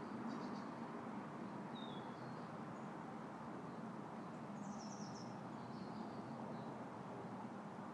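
Steady wind moving through a tree's leaves. Faint bird chirps are scattered over it, with a short falling chirp about two seconds in and a quick cluster of chirps about five seconds in.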